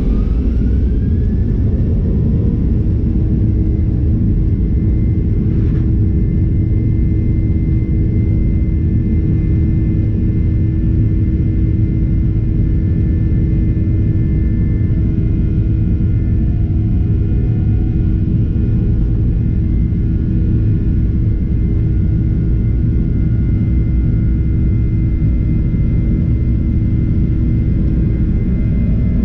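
Boeing 737-800's CFM56 jet engines at high power, heard from inside the cabin: a loud, steady rumble with several steady whining tones over it. One tone rises in pitch during the first two seconds as the engines spool up.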